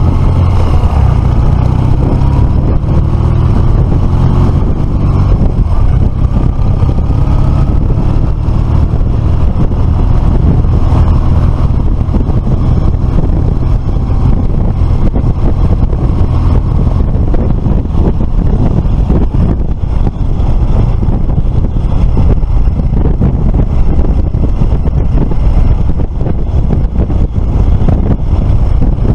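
Motorcycle on the move at road speed: the engine runs under a heavy, steady rumble of wind buffeting the microphone, its pitch rising and falling in the first several seconds.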